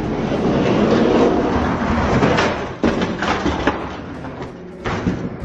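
Die-cast toy monster trucks rolling fast along plastic track with a rattling rumble, followed by several sharp clacks as they hit and land.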